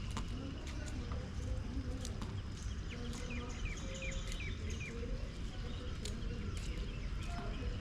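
Outdoor ambience: a steady low rumble with scattered light ticks, and a bird giving a quick run of about five short, falling chirps around the middle.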